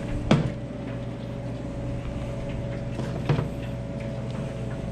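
Steady drone of restaurant kitchen equipment with a constant hum, broken by two short sharp knocks of cookware, one just after the start and one about three and a half seconds in.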